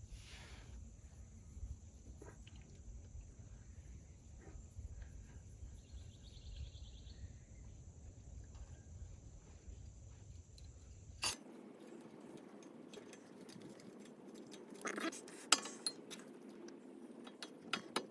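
Faint work sounds of a brake pad job. A low rumble and a thin steady high tone run for about the first eleven seconds, with a few small clicks. Then the sound changes abruptly to scattered sharp metallic clinks and taps from the brake hardware and tools, loudest in the last few seconds.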